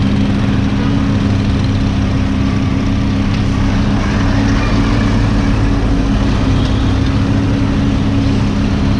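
Lamborghini Huracán's V10 engine with a Fi aftermarket exhaust idling steadily, a constant low hum.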